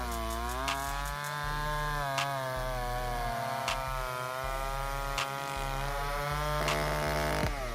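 Chainsaw engine running while cutting wood, its pitch sagging and rising as the chain works through the cut. Sharp clicks come at a steady interval of about a second and a half.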